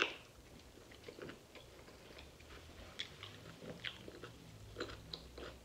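A person bites into a chili cheese dog at the very start, then chews the mouthful with the mouth closed: quiet, close-miked wet chewing with small irregular clicks and smacks.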